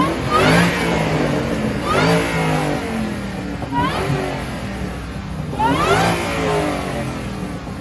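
An engine revving in short blips over a steady low running note, its pitch climbing steeply and dropping back about four times, roughly every two seconds.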